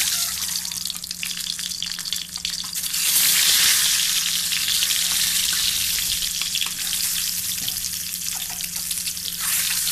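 Eggs coated in salt and turmeric sizzling as they fry in hot oil in a karahi, the sizzle swelling louder about three seconds in. A steady low hum runs underneath.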